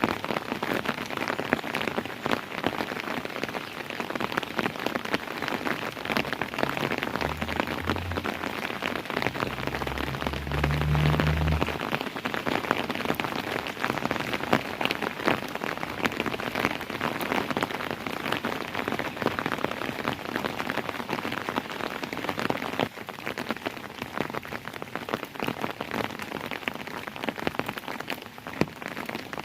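Steady heavy rainfall: a dense hiss of rain with many individual drops pattering and ticking on surfaces. A low rumble comes in about a quarter of the way through and fades out a few seconds later.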